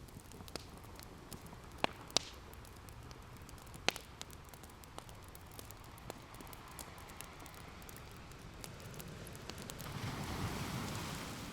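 Open wood fire crackling, with a few sharp pops about two and four seconds in, over the steady wash of ocean waves; a wave swells up and draws back near the end.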